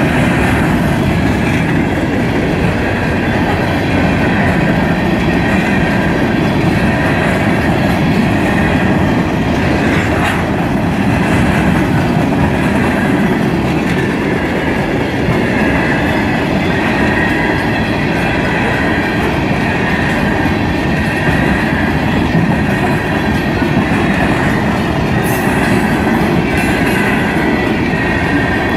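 Covered hopper cars of a freight train rolling past at a grade crossing, a steady, loud wheel-on-rail noise that holds even throughout.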